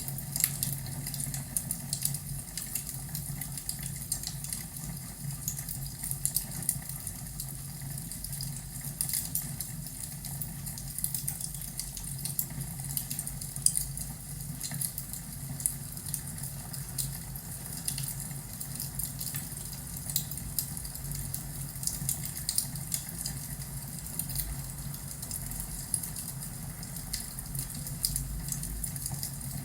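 Fireplace crackling: irregular sharp pops and snaps of burning wood over a steady low rumble.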